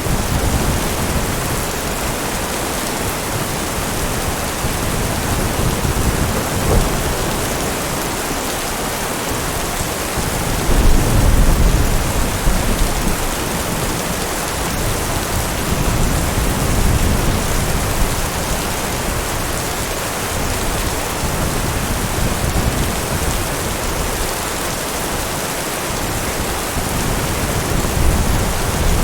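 Steady heavy rain with low rumbles of thunder rolling underneath, the loudest swell of rumble coming about a third of the way through.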